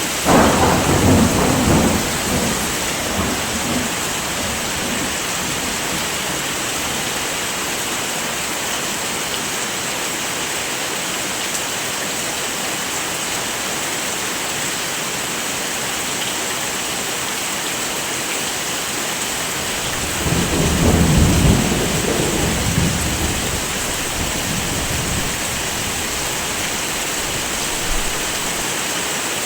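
Steady heavy rain with two low rolls of thunder, one right at the start and another about twenty seconds in, each rumbling for two to three seconds.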